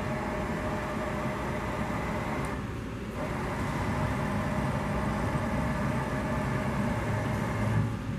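Bridgeport EZTrak II CNC mill's Y-axis servo drive jogging the table, a steady motor hum and whine that dips briefly about three seconds in, then runs on.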